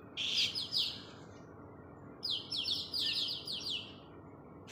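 Swiftlet giving sharp, high chirps that sweep downward in pitch: a short burst right at the start, then a longer run of rapid chirps about two seconds in.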